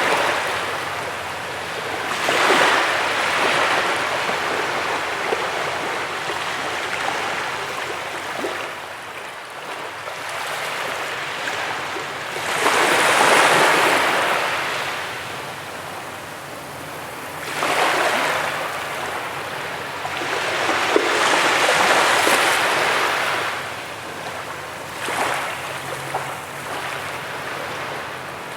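Sea waves breaking and washing on a beach: a steady wash that swells into louder rushing surges every few seconds, at irregular intervals, the strongest about halfway through and again a little past three quarters of the way in.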